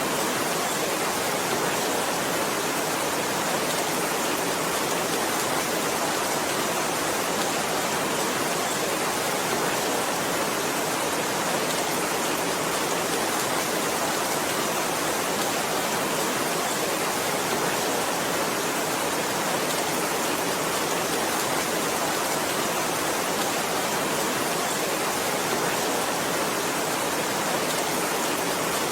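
Heavy rain, a steady dense hiss that never changes, with no single drops or thunder standing out.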